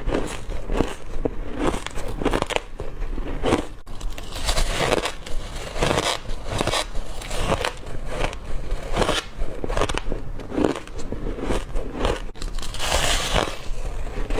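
Close-up crunching of crushed ice being bitten and chewed, a quick irregular run of crisp cracks and crackles several times a second.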